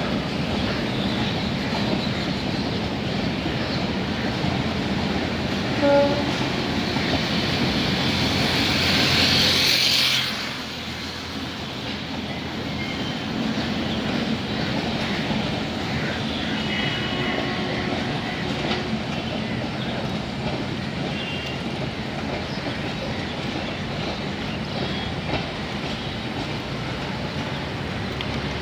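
Indian Railways train running, with the steady rumble and clickety-clack of its wheels on the rails. A short horn toot sounds about six seconds in. The noise builds and then drops suddenly about ten seconds in, settling to a lower steady rumble.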